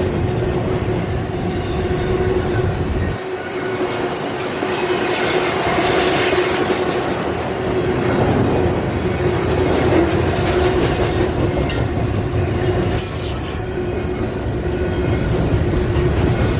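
Northbound CSX intermodal freight train rolling past, a steady loud rumble of wheels on rail with a steady hum-like tone held throughout.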